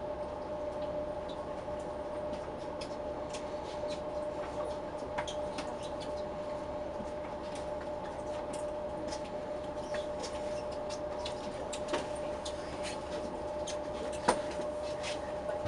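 Steady hum inside a train standing at a station, with scattered light clicks and ticks throughout.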